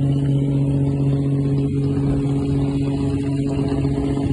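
Fishing boat's engine running steadily, a constant low hum with an unchanging pitch, heard on board.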